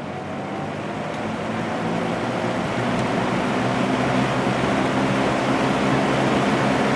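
Early-1980s Sears box fan with a plastic Marco motor starting up on medium speed: the motor whines as the blades spin up and the rush of air grows, levelling off to a steady run about four seconds in.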